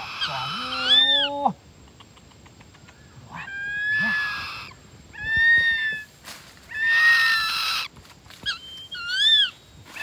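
Young hawks and a parakeet calling: about five shrill, whistled calls of about a second each, rising and falling in pitch, some of them hoarse, with short pauses between.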